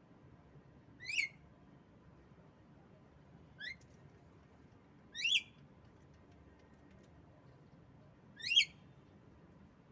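Female Javan myna (jalak kebo) giving four short, sharp calls, each sweeping upward in pitch, a couple of seconds apart; the last call is the loudest.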